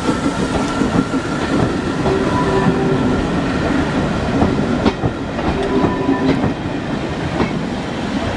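Heritage railway train on the line: a steady rumble with many irregular clicks and knocks, and a few short held tones.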